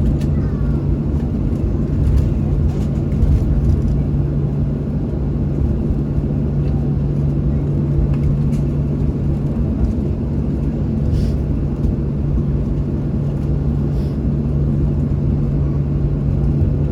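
Boeing 737-700 cabin noise with its CFM56 jet engines running: a steady low hum over a deep rumble and airflow hiss, holding level throughout.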